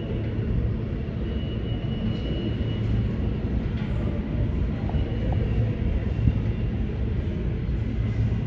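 New York City Subway train on the L line running through the station with a steady low rumble, a thin high whine coming and going.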